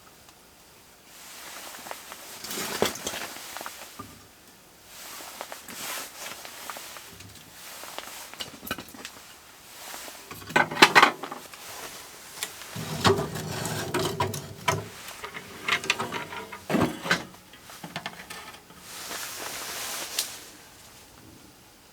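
Irregular knocks, clatters and rustling of objects being handled, loudest about halfway through, with a longer stretch of scraping and shuffling just after.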